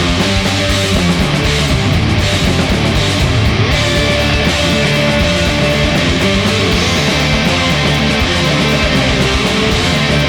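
Stoner rock band playing: distorted electric guitars, bass and drums, instrumental with no singing.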